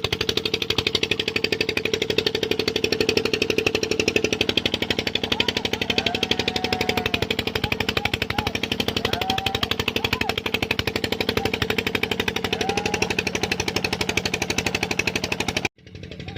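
Tube well pump engine running steadily with a rapid, even knocking beat. It cuts off suddenly near the end.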